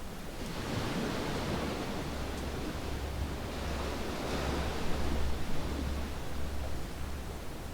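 Ocean waves washing onto a sandy beach, the surf swelling about half a second in and again near the middle, over a steady low rumble. A few faint crackles from a campfire.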